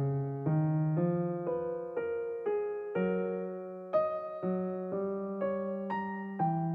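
Background piano music: gentle single notes and chords struck about twice a second, each fading away.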